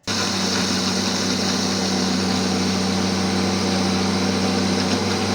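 Countertop blender motor switching on abruptly and running steadily at full speed, grinding Oreo cookies into crumbs.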